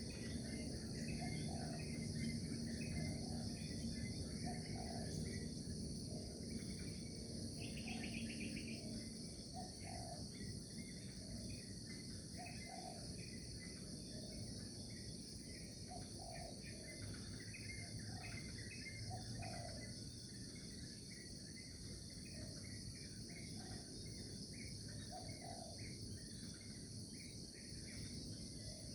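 Dense chorus of crickets singing a continuous high, pulsing trill. Short lower calls repeat every second or two and a few scattered chirps come through, over a low background rumble.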